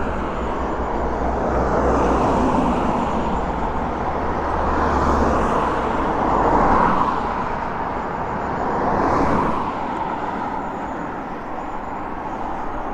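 Road traffic: cars passing one after another, the noise swelling and fading about three times.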